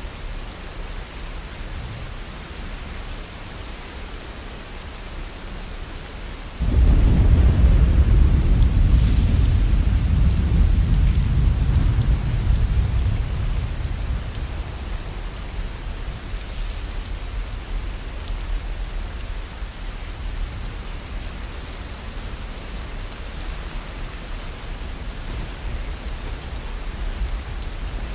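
Steady heavy rain. About seven seconds in, a sudden deep thunderclap breaks in and rumbles away over the next several seconds.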